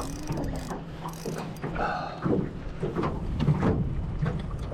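Fishing reel ratcheting and clicking in quick repeated strokes as a hooked pike is reeled in, over a steady low hum.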